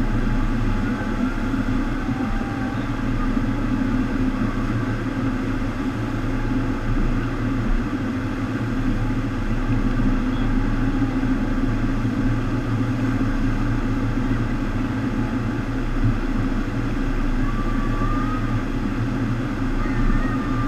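FlowRider sheet-wave surf machine running: a steady rush of water over a deep, even pump hum.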